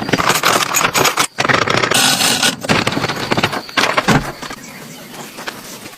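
Busy, irregular scraping and clattering, many quick knocks and rasps close together, easing off after about four seconds.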